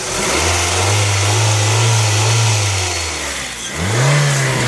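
Honda CR-V's 2.0-litre four-cylinder engine revved twice: a long rev that climbs and holds for a couple of seconds before dropping, then a quicker, higher rev near the end.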